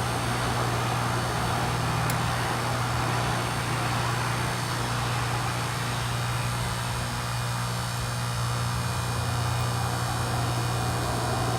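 2001 Amana Temp-Assure heat pump running in its defrost cycle: the compressor hums steadily over an even hiss.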